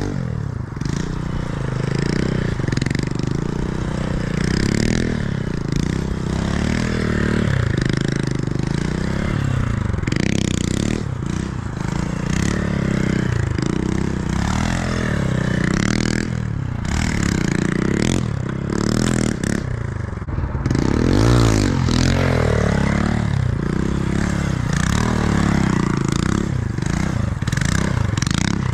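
Motorcycle engine running under way, its pitch falling and rising again and again as the throttle is rolled off and on and gears change, over a steady rushing noise.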